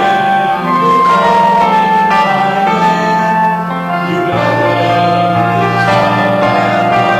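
Church music on a keyboard instrument: held chords with a melody line over a sustained bass note that changes a few times.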